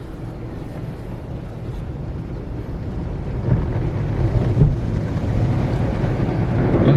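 Belanger car wash tunnel equipment running, heard from inside the car on the conveyor: a low rumbling noise that grows louder about halfway through.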